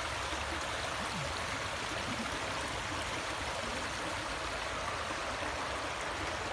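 Flowing stream water running steadily, an even rushing sound at a constant level.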